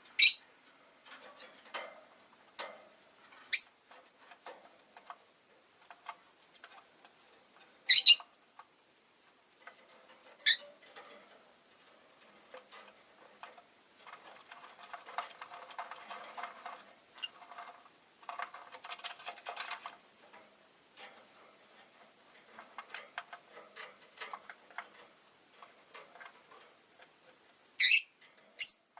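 Rosy-faced lovebirds giving half a dozen short, sharp, high calls, two of them close together near the end. Between the calls come soft, quick clicking and rustling, busiest in the middle.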